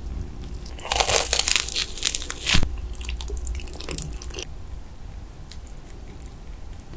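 Close-up eating sounds: a crisp breaded fried mozzarella stick bitten into with a loud crackly crunch about a second in, then a few smaller crunches as it is chewed, fading to quieter chewing.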